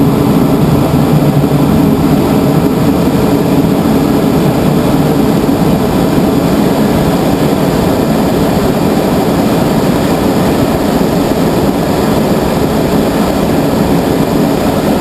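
Loud, steady rush of wind through a glider cockpit's open side window and front vent as the sailplane picks up speed in a descent.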